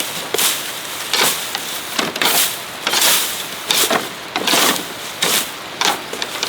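A series of short swishing, scraping strokes, about one every two-thirds of a second.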